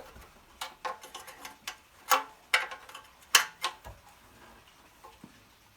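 Irregular metallic clicks and knocks from hand tools and the generator's metal parts being worked on, with a few louder clanks in the middle and only faint ticks near the end.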